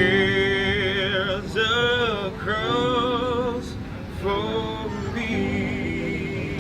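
A man singing with a strong vibrato over instrumental accompaniment, in five held phrases broken by short pauses.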